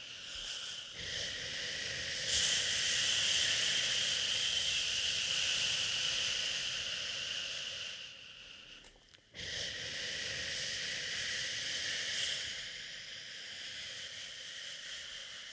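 A person shushing a long drawn-out "shhh" to soothe a baby, held for several seconds, then a short break about nine seconds in before another long shush.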